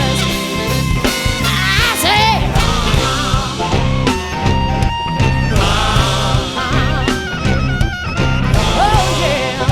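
Live band playing a rock song with a steady beat, with a wavering melody line over the bass and drums.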